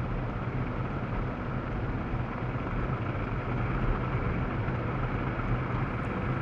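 Yamaha Serow enduro motorcycle running steadily while riding downhill, with a steady low hum and an even rushing noise.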